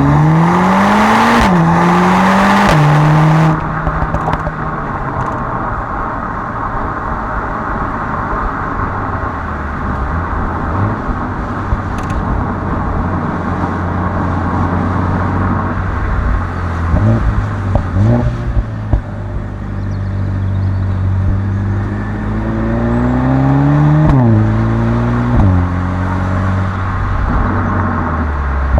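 Mercedes-AMG A45 S's turbocharged four-cylinder engine and exhaust accelerating hard through two quick upshifts at the start. It then cruises with a steady drone and a couple of short rev changes, and pulls hard again through two more upshifts near the end.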